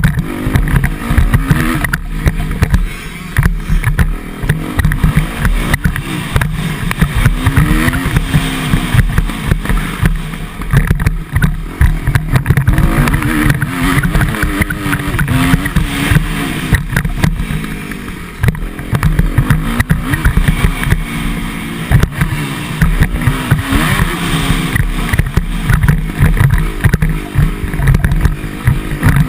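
Motocross dirt bike engine revving up and down over and over as it is ridden around a dirt track, under heavy wind buffeting on the microphone.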